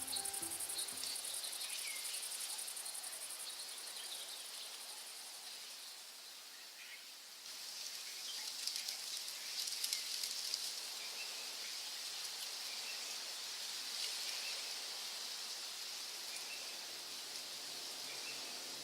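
Outdoor nature ambience: a steady high-pitched chirring of insects such as crickets, with a few faint bird chirps. The tail of background music fades out in the first second. About seven seconds in, the ambience switches abruptly to a lower, steady hiss with occasional bird chirps.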